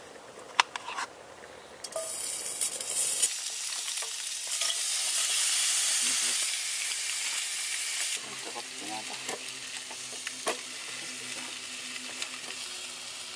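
Leftover Spam and sausages sizzling as they fry in a pan. The sizzle swells for a few seconds in the middle, then settles lower over a faint steady hum.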